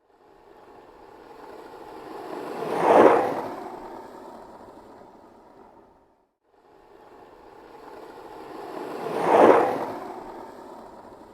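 Skateboard rolling past twice, its wheels on pavement: each pass grows louder to a sharp peak and fades away, with a short silence between the two.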